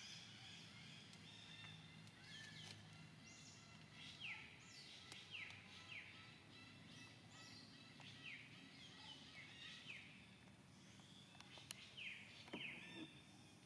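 Faint chirping of several small birds: many short calls that sweep down in pitch, coming irregularly, over a low steady hum.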